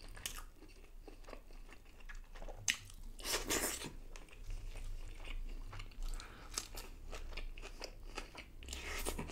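A person chewing and biting crisp fried food close to a microphone, with wet mouth sounds and irregular crunches; the loudest crunches come about three seconds in and again near the end.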